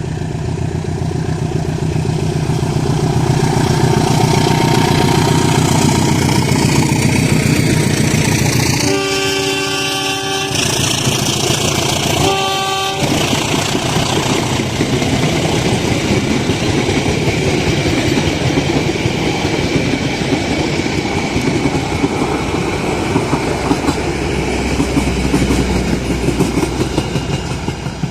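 A diesel locomotive hauling a passenger train passes close by with its engine running loud. It sounds its horn in a long blast, then a short one a couple of seconds later. Its coaches then roll past with steady rail noise and wheel clacks over the rail joints.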